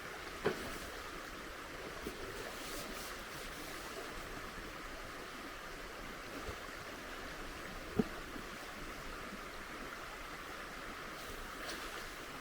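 Steady rushing of flowing river water, with two short sharp clicks, one about half a second in and one about eight seconds in.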